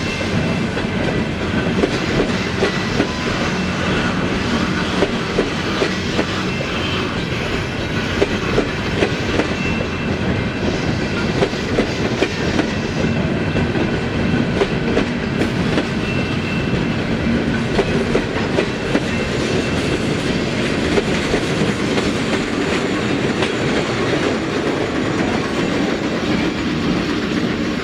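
Railroad cars of a train rolling steadily past, wheels clattering over rail joints in a continuous clickety-clack with a heavy rumble.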